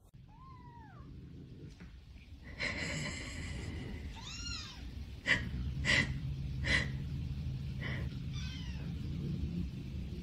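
A cat meowing several times, short arched calls that rise and fall in pitch, with a few short sharp sounds in between.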